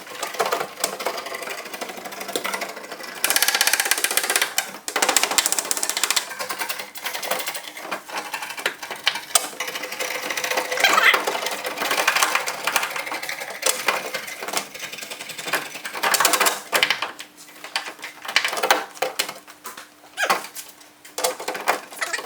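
Bursts of workshop power-tool and metalwork noise on a car body panel, starting and stopping unevenly, with a faint steady hum underneath.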